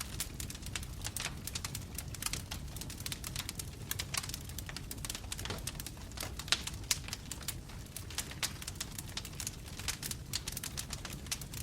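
Wood fire of burning logs crackling, with frequent irregular sharp pops and snaps over a low, steady rumble of flame.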